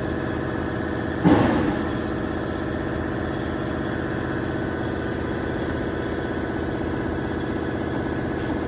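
BMW car engine idling steadily, with one brief louder rush of noise about a second in.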